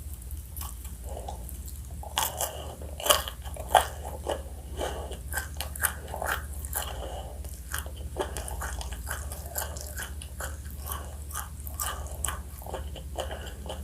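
Close-miked crunchy bites into fried chicken and chewing, a string of crisp crunches with the loudest a few seconds in.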